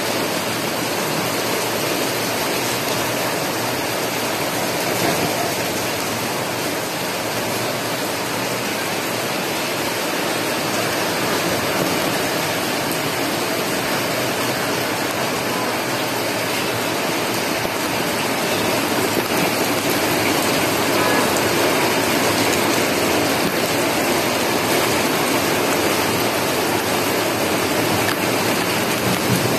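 Heavy monsoon rain pouring steadily onto trees and leaves, a dense, even hiss that grows a little louder about two-thirds of the way through.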